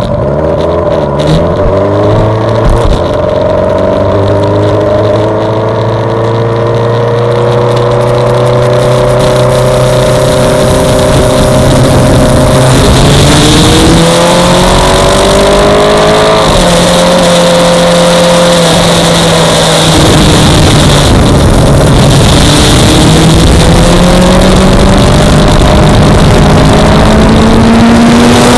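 Suzuki GSX-R600's inline-four engine pulling hard on track, its pitch rising through the revs and dropping at gear changes, with a loud rush of wind building as speed rises.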